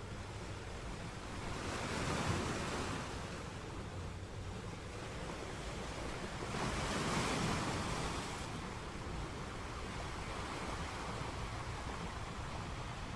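Sea waves washing onto a shore: a steady rush of surf that swells twice, about two seconds in and again about seven seconds in, as waves break and fall back.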